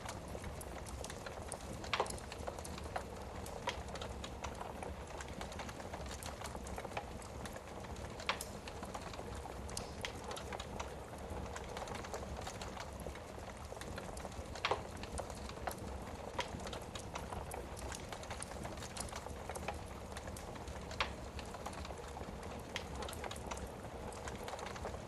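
Wood fire burning in a fireplace: a steady hiss with frequent small crackles and a louder pop about every six seconds.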